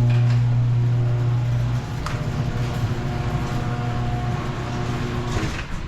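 A steady low machine hum with overtones, loud for about the first two seconds and then quieter, with a few faint knocks.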